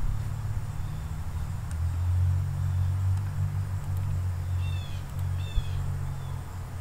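Steady low background rumble, the noise of the recording place, with a bird chirping twice, two short falling notes about half a second apart, a little after the middle.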